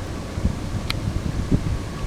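Wind buffeting the microphone over the low rumble of an approaching diesel freight train, with one sharp click about a second in.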